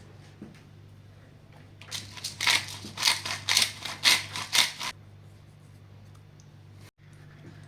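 A run of about ten quick rasping, scraping strokes, about three a second, lasting some three seconds and then stopping; a steady low hum lies underneath.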